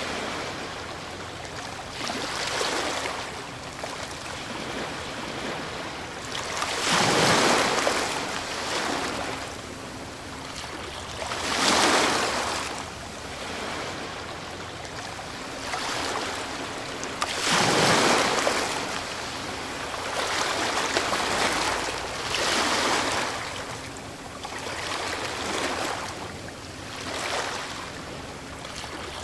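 Ocean surf: waves breaking and washing in, a swell of hiss every few seconds that rises and fades, with three breakers louder than the rest.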